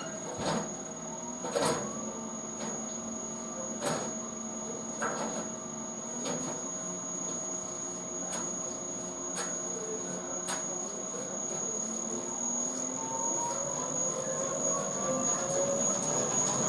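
Drum-type washing machine turning: its motor gives a steady whine, with knocks of the load dropping in the drum in the first half. Over the last few seconds a rising whine comes in and the sound grows louder as the drum speeds up.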